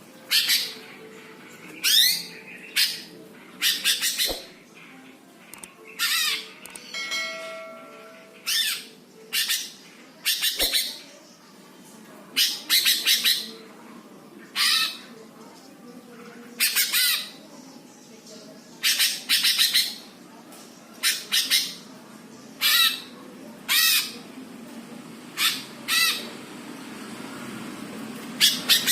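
Cucak hijau (greater green leafbird) giving loud, harsh, scolding bursts of calls again and again, each under a second long with short pauses between. This is the aggressive 'ngentrok' calling of a fired-up bird.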